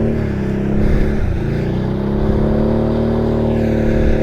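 Can-Am Outlander ATV's V-twin engine revving hard and holding high revs under load, with a brief dip about a second in, as a machine stuck in mud is yanked free.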